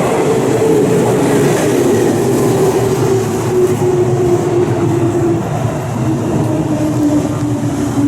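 Electric train moving through a station, the rumble of its running with a motor whine that slowly falls in pitch.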